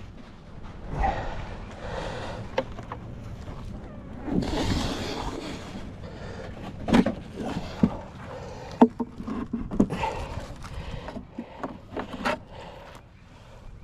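Handling noise from beehive equipment being moved: rustling, then a string of sharp knocks and clacks, the loudest about seven and nine seconds in.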